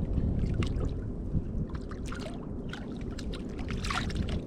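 Wind rumbling on the microphone at sea, with water lapping and slapping against a kayak's hull in many small, irregular splashes.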